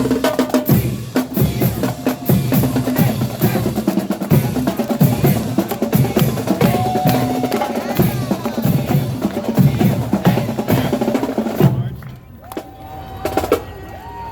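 Marching band drumline with snare and bass drums playing a fast, dense rhythm that cuts off abruptly about twelve seconds in, leaving a much quieter stretch.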